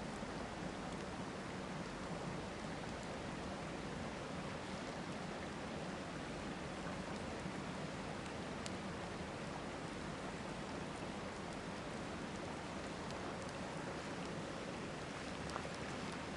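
Steady rush of flowing river water, with occasional sharp pops from a wood campfire: one clear pop about halfway through and a few more near the end.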